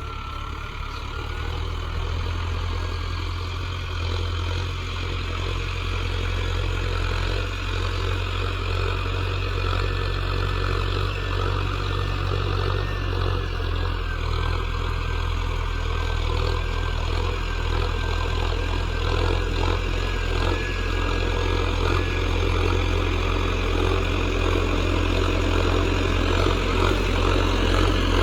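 Tractor diesel engine running steadily under load while pulling a plough in low-range fifth gear, growing gradually louder.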